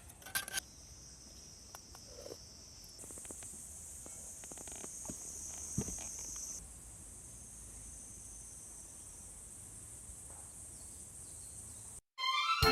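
Insects chirring in a steady high-pitched chorus, which shifts in pitch and loudness about three seconds in and again near seven seconds.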